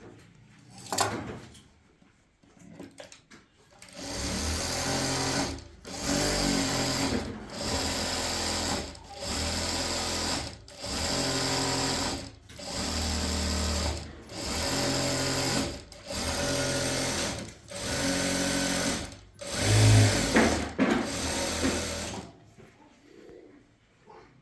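A small electric motor running in about eleven short runs of a second and a half each, stopping briefly between them.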